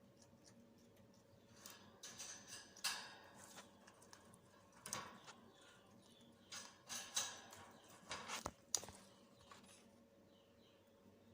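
Faint, irregular clicks and taps from an African grey parrot working at neem leaves with its beak, with a few sharper knocks among them.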